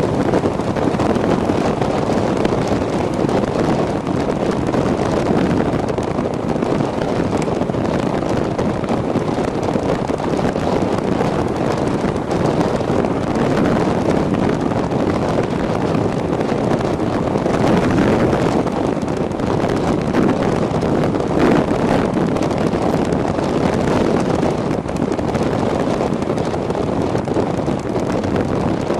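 Steady rush of wind buffeting the microphone of a camera mounted on a moving e-bike riding into a strong headwind, with road noise beneath and no clear motor whine.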